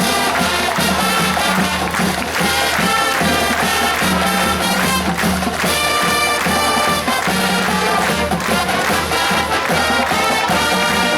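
A high school marching band playing loudly, with brass holding long notes over drums and a steady low bass.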